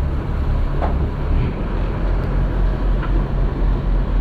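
Ferry engine running with a steady low rumble, a few faint clicks over it.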